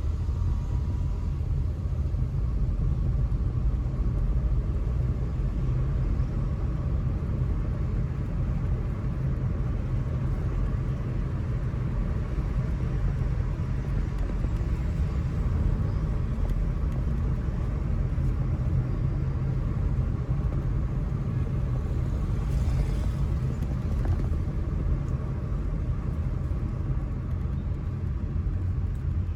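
A car driving along city streets: a steady low rumble of engine and road noise.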